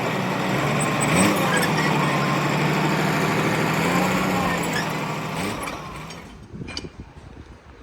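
A large vehicle engine running steadily, then fading away about six seconds in, followed by a few faint knocks.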